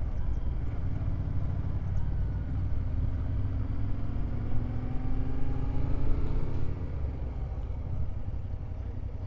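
Motorcycle engine, the rider's Yamaha Ténéré 700 parallel twin, running at low speed with a steady low rumble; its pitch rises gently for a few seconds in the middle.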